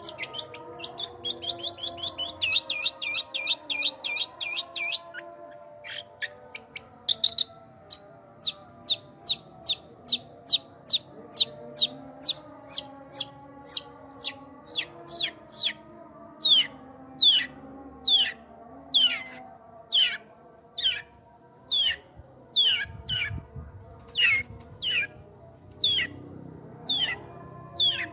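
A songbird calling: a quick run of short, sharp chirps, about eight a second, for the first five seconds, then a long series of clear notes that each slide steeply down in pitch, a little more than one a second.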